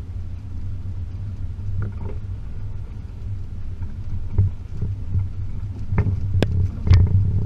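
Range Rover P38's 4.0 V8 running at low speed with a steady low rumble. Several sharp knocks and clatters come over it, bunched about six to seven seconds in, as the 4x4 goes over a rough off-road track.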